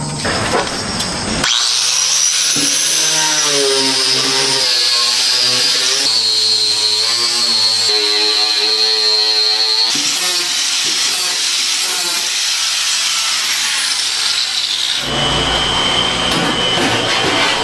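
A power tool running with a steady high-pitched whine. The pitch steps to a new level a few times, with a clear change about 15 seconds in.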